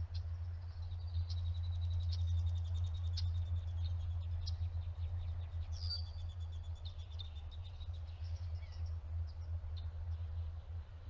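A steady low hum, with faint high-pitched chirps and gliding squeaks from a small animal over it that thin out towards the end.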